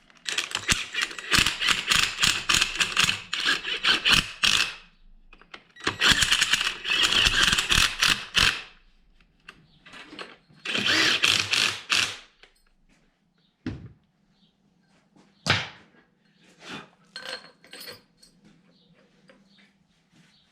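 Three bursts of rapid mechanical clicking from a tool driving bolts home, each lasting two to four seconds, followed by two sharp single knocks.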